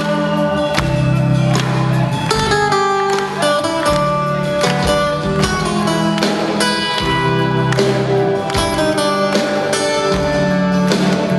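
Instrumental rock band music without vocals: guitars strummed over a steady band backing.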